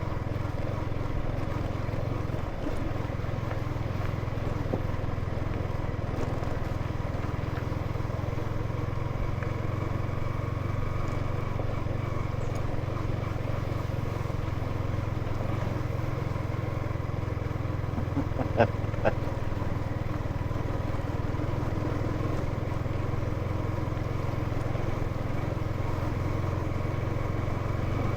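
Motorcycle engine running steadily under way, with two sharp knocks about two-thirds of the way through.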